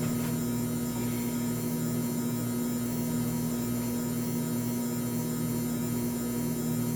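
Mini washing machine's electric motor running, a steady electrical hum with no change in pitch or level.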